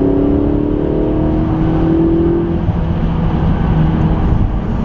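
McLaren 650S twin-turbo V8 accelerating with its pitch rising, then dropping about two and a half seconds in to a lower, steadier note. A heavy low rumble runs underneath.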